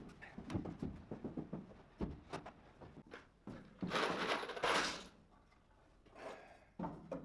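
Objects being handled: scattered knocks and clinks, with a longer noisy scrape about four seconds in.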